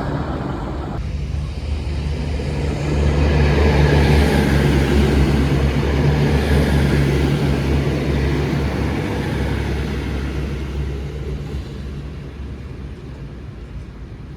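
V/Line VLocity diesel multiple unit passing, its diesel engines droning steadily; it grows louder about three seconds in and fades away toward the end.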